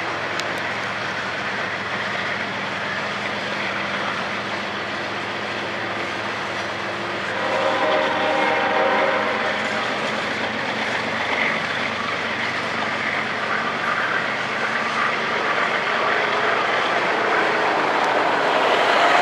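Norfolk Southern coal train of hopper cars rolling past, a steady rumble and clatter of wheels on rail that grows louder toward the end. About eight seconds in, a horn-like chord sounds for roughly two seconds.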